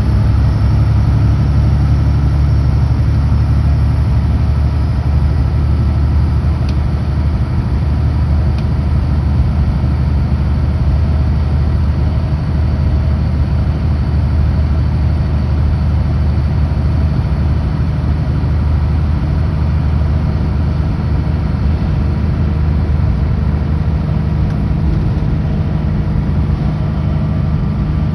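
Kenworth W900L semi truck's heavy diesel engine running steadily at highway cruise, a low even drone mixed with road and tyre noise.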